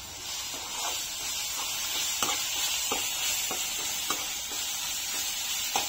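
Onions, green chillies and ginger-garlic paste sizzling steadily in hot oil in a pan at a medium flame. Short stirring strokes against the pan come every half second to a second or so.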